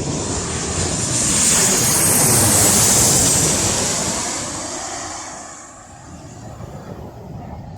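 Jet2 Boeing 737 passing low on approach to land: the jet engine noise swells to a loud, hissing peak and then fades away. Wind buffets the microphone throughout.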